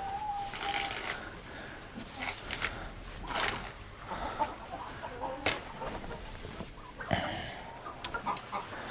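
Chickens clucking, with a few short knocks or rustles scattered through.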